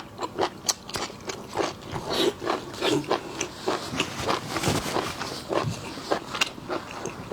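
Close-up mukbang eating of seafood: a rapid run of bites and crunches, short sharp cracks about four a second.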